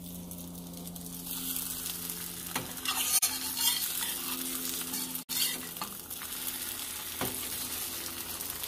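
Egg-soaked tortillas frying in a pan: a steady sizzle with a few faint clicks, over heat that hasn't been turned up.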